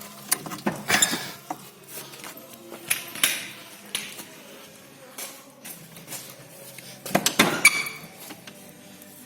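Metal hand tools and engine parts clinking and clanking against each other in irregular knocks, with a busier run of clanks near the end.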